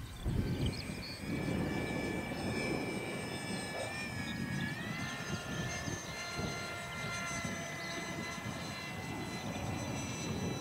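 Electric ducted fan of an RC model jet whining steadily, its pitch stepping up about five seconds in as the throttle is opened, over the low rumble of wind on the microphone.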